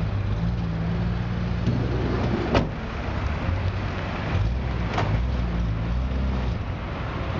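BMW E46 3 Series car engine idling with a steady low rumble, its pitch shifting slightly now and then. A sharp click comes about two and a half seconds in, and a weaker one about five seconds in.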